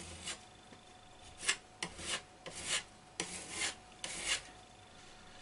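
Short scraping strokes of a filler knife working plaster filler on a wall, about seven uneven strokes over a few seconds.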